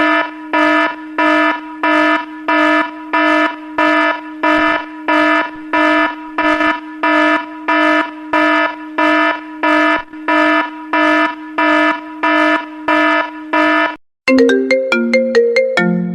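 iPhone ringtone or alert tone: one pitched, buzzy tone pulsing evenly about twice a second. About fourteen seconds in it stops and a different, melodic iPhone ringtone of quick changing notes begins.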